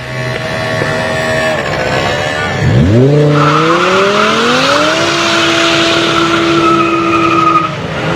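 A BMW car's engine revs hard, its note climbing steeply from about three seconds in and then holding high and steady, while the tyres squeal as if spinning in a burnout or drift. The engine note and the squeal cut off together near the end.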